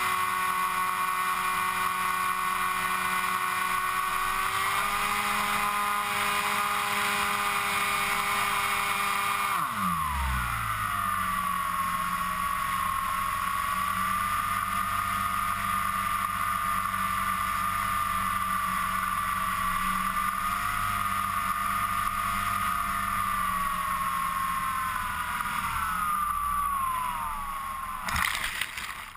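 Electric motor and propeller of an FPV model aircraft running steadily, heard through its onboard GoPro. About ten seconds in the pitch drops sharply as the throttle comes back, then holds; near the end it sinks further and stops.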